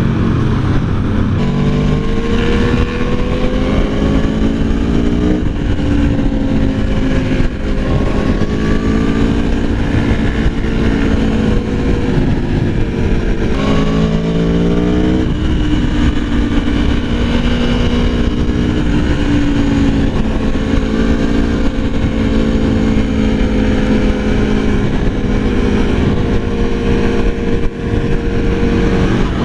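Aprilia Tuono V4 1100's V4 engine pulling hard on track, its pitch climbing through each gear and dropping at the shifts, with a quick fall and sharp rise in pitch about halfway through. A heavy low rush of noise runs underneath.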